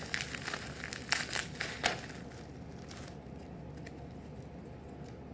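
Packaging crinkling and crackling as it is handled and opened, in a run of sharp crackles over about the first two seconds, then quiet room tone.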